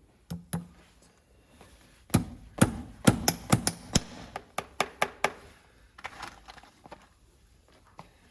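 Farrier's hammer striking in a quick, uneven run of about a dozen blows, after two single knocks at the start, then fainter scraping.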